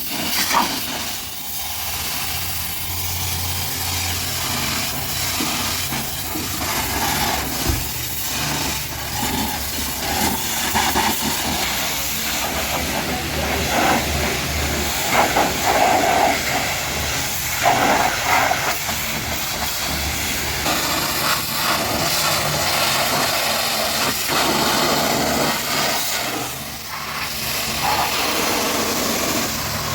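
Pressure washer spraying a high-pressure jet of water onto a car, a steady hiss that swells and dips as the spray moves, with the washer's motor humming low underneath.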